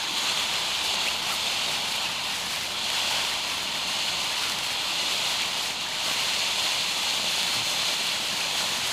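Low-noise consumer firework sending out a steady, high hiss of burning spray, with no loud reports.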